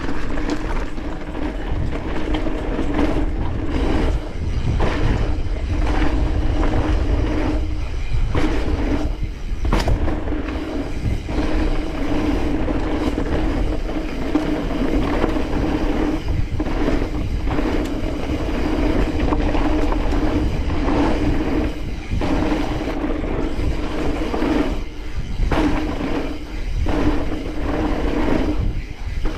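Mountain bike descending a fast dirt trail: knobby tyres rumbling over dirt and rock, with rattling knocks from the bike, and wind buffeting the helmet-mounted microphone. A steady hum runs underneath and drops out briefly now and then.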